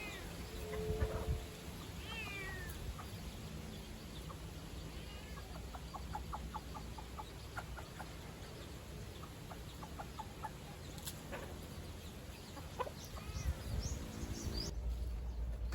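Chicken squawking and clucking in short calls, with a run of quick clucks in the middle.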